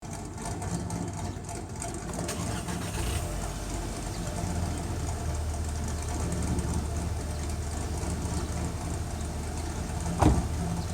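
Car engine idling: a steady low hum, with one short thump near the end.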